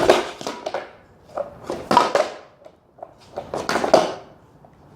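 Skateboard with very loose trucks clattering and knocking on the ground during failed trick attempts, in three loud bursts about two seconds apart.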